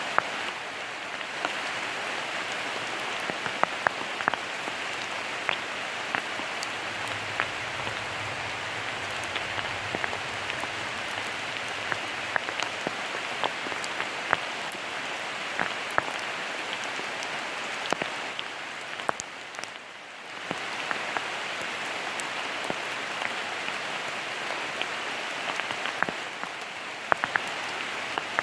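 Steady autumn rain, a constant hiss with many sharp close drop impacts ticking through it. It eases briefly about two-thirds of the way through.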